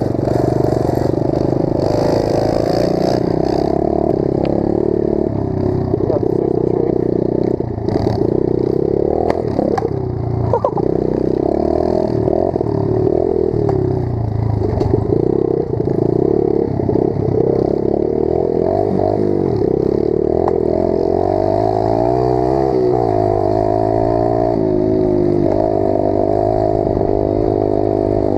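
Pit bike engine running hard while being ridden, its pitch rising and falling with the throttle and gear changes, with the bike's frame clattering and rattling over rough trail.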